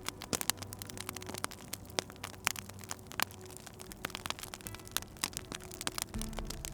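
Wood fire in a fireplace crackling, with a constant patter of small irregular pops and snaps over a low hum that grows stronger near the end.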